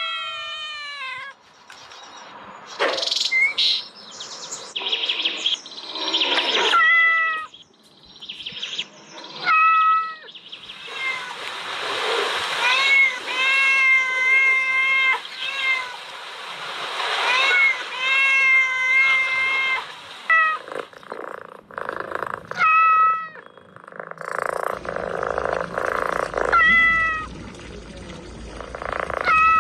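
Kittens meowing again and again: many short, high mews and a few longer drawn-out ones, with stretches of hissy noise between the calls.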